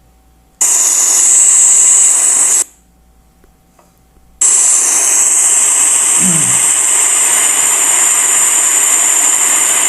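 Rain recorded on a phone microphone: a loud, steady hiss that plays for about two seconds, stops, then comes back about four and a half seconds in and continues.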